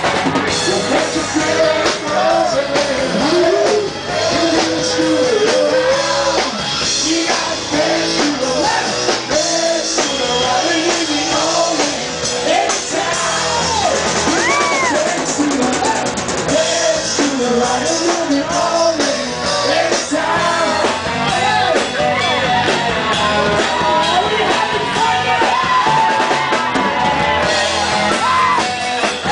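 A live rock band playing a song with drum kit and a singing voice.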